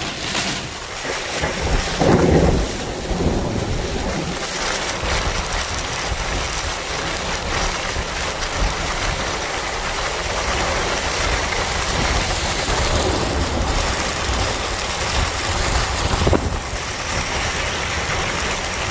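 Heavy rain falling in a loud, steady hiss, with a louder low burst about two seconds in and a short sharp one near the end.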